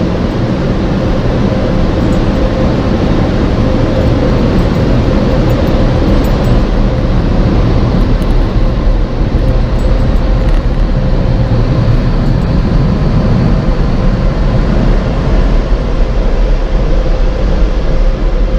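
Automatic car wash air dryers blowing on the car, heard from inside the cabin: a loud, steady rush of air that grows a little louder over the first few seconds.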